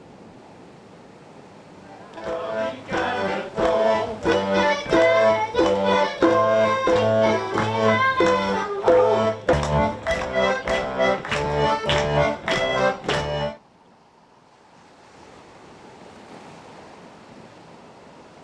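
Accordion music with a lively, regular rhythm. It starts about two seconds in, over a steady rushing noise, and cuts off suddenly a few seconds before the end, leaving only the rushing noise.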